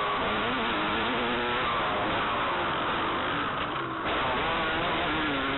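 Motocross dirt bike engine being ridden on a track, its pitch rising and falling with the throttle under a constant rushing noise. About three and a half seconds in it briefly eases off, then picks up again.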